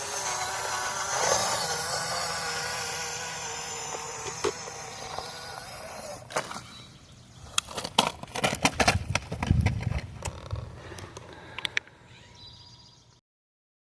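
A small RC scale truck's electric motor and gearbox running steadily, then a quick series of clicks and knocks with a low thud, typical of the truck bumping over rough ground. The sound cuts off suddenly near the end.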